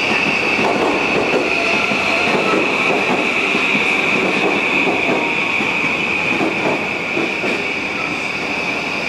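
JR E235-1000 series electric commuter train running, its wheels clattering irregularly over the rails under a steady rumble, with a steady high-pitched whine over it.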